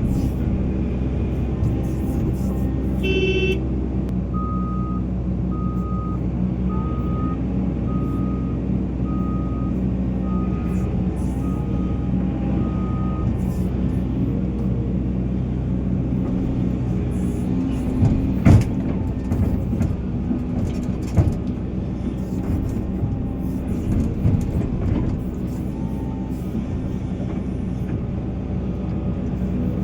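Heavy diesel machinery, the Volvo EC480 excavator at work, running steadily. A reversing alarm beeps about once a second, nine times in all, starting a few seconds in, just after a short toot. Later come a few sharp knocks, the loudest about two-thirds of the way through.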